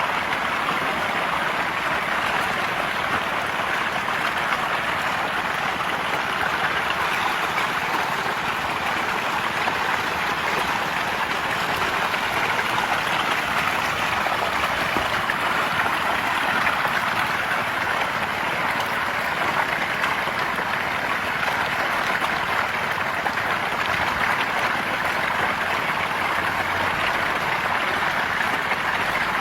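Continuous splashing and churning of water from a dense mass of fish thrashing at the surface as they feed, steady throughout.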